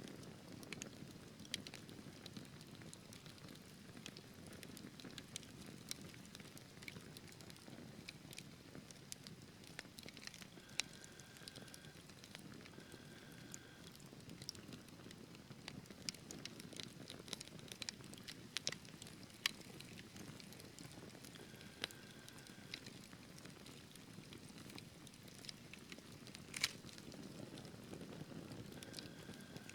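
Wood fire burning in a fireplace: a low, steady rush of flames with scattered sharp crackles and pops from the burning logs, the loudest pop near the end.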